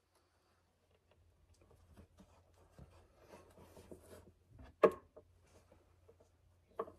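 Faint rubbing and handling noises, then one sharp knock about five seconds in, as an LED headlight bulb is worked into its headlight housing.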